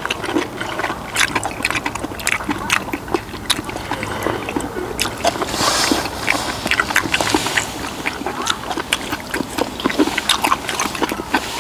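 Close, wet chewing, lip-smacking and slurping of several people eating spicy stir-fried webfoot octopus, many small irregular clicks and smacks.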